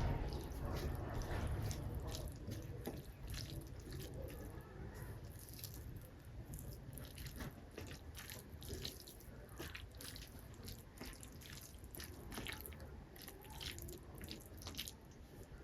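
Irregular soft, wet clicks and squelches, several a second, of rice and dal being mixed and eaten.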